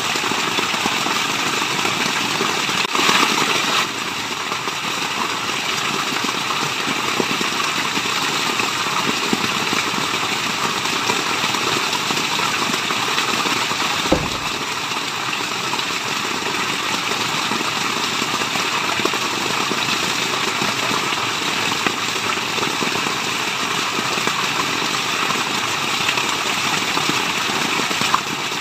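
Waterfall rushing steadily, an even wash of falling-water noise with no pauses, and a brief click about halfway through.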